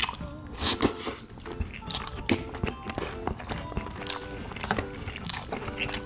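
Close-up chewing of tteokbokki, chewy rice cakes and fish cake in spicy sauce: a quick run of sharp mouth clicks and smacks. Soft background music plays under it.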